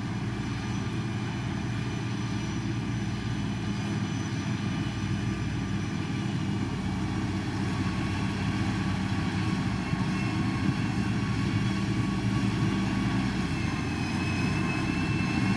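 Heavy road-construction machine's diesel engine running steadily, a low even drone with faint steady whines above it.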